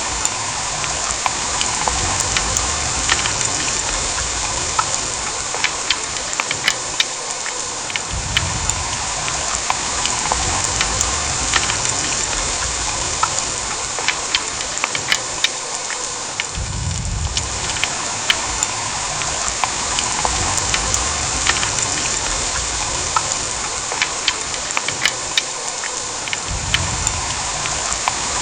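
Heavy downpour: a steady dense hiss of rain with many sharp drop ticks throughout, and a low rumble that swells and fades every several seconds.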